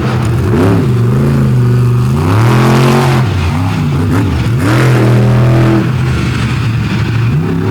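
Monster truck engine being revved hard and let off again and again, its pitch rising and falling several times, then holding steadier near the end.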